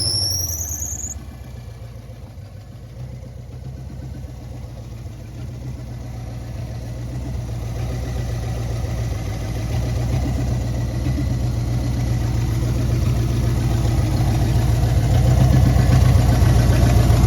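Freshly swapped-in 350 small-block V8 running on its first start with the ignition timing off, its note growing steadily louder over the seconds as the timing is adjusted. A high rising squeal cuts off about a second in.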